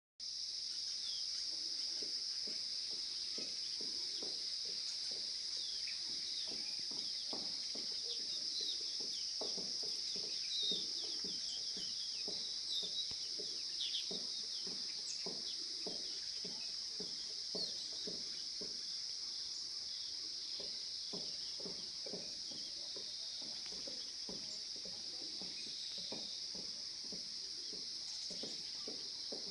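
Outdoor natural soundscape: a steady high-pitched insect drone with scattered short bird chirps, over many irregular short low calls or clicks.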